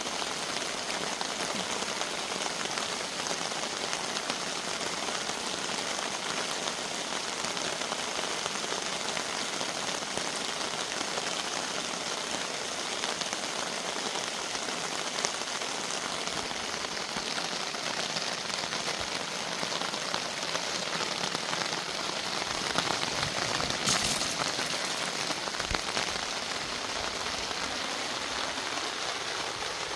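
Steady heavy rain pattering on a tent and tarp, with a brief louder rush about two-thirds of the way through.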